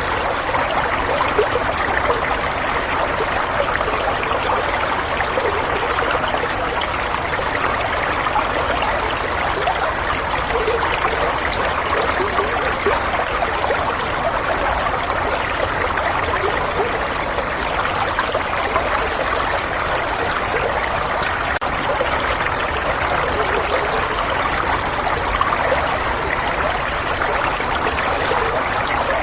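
Running water flowing steadily like a stream, a continuous even rush with fine trickling detail.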